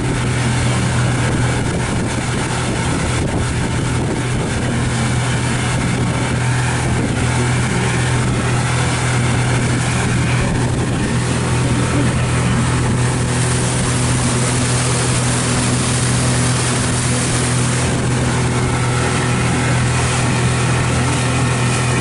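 Pontoon boat under way: its motor runs with a steady low drone under a constant rush of wind and water. The hiss grows a little stronger for a few seconds past the middle.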